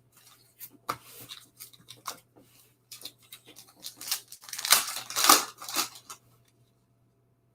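Trading-card packaging and cards being handled: small clicks and rustles, then a louder crinkling, tearing burst of a pack wrapper being opened about five seconds in.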